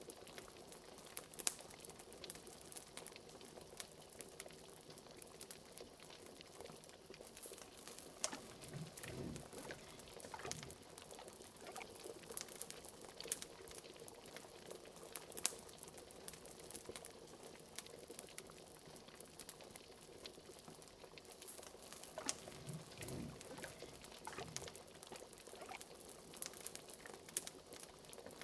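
Liquid bubbling at a steady boil, with frequent sharp crackles and pops and two deeper gloops of larger bubbles.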